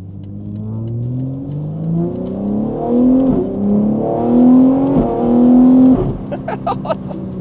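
BMW G81 M3's S58 twin-turbo straight-six, breathing through catless downpipes and an equal-length OPF-delete midpipe, accelerating hard. The engine note climbs steadily, then quick upshifts break it three times in a row before the driver lifts off about six seconds in.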